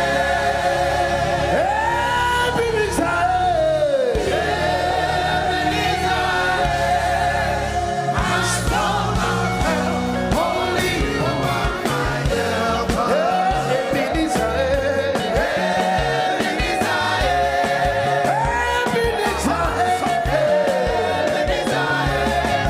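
Live gospel praise music: singers with choir voices over a band, the drums coming in strongly about eight seconds in.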